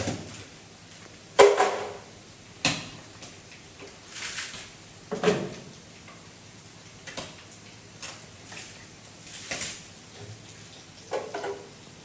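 Scattered knocks and clatters, a few sharp ones, the loudest about a second and a half in, with softer scraping or rustling sounds between them.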